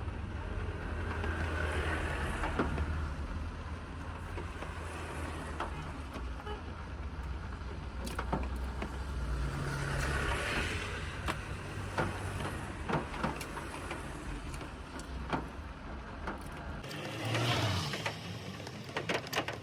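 Car cabin sound: a steady low engine and road rumble, with swells of passing traffic or wind and scattered small clicks. The rumble drops away near the end.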